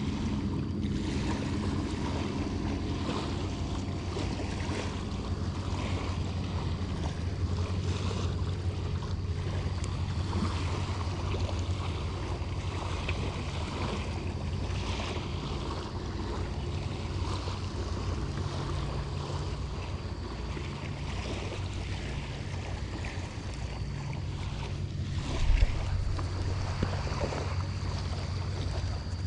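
Steady low motor drone over wind buffeting the microphone and light surf on the shore, with a single brief thump about twenty-five seconds in.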